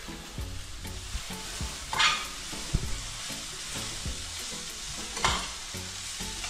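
Mopane worms (emperor moth caterpillars) frying in a pan with a steady sizzle, which surges louder twice, about two seconds in and again about five seconds in.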